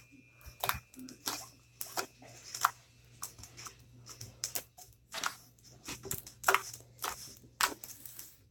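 Slime being squeezed and pressed by hand, giving irregular sharp clicks and pops as trapped air bubbles burst, about one or two a second.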